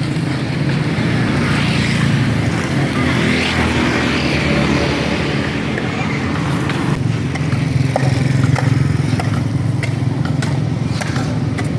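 A small engine running steadily, with scattered clicks and knocks in the second half.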